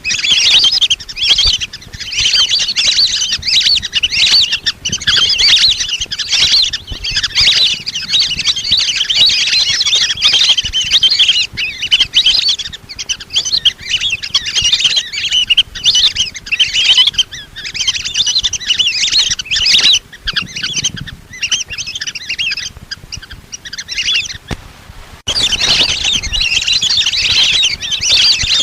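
A flock of lesser whistling ducks calling: a dense, continuous chatter of high whistles overlapping one another, with a short break about 25 seconds in. This is the kind of flock-call recording that hunters play as a lure.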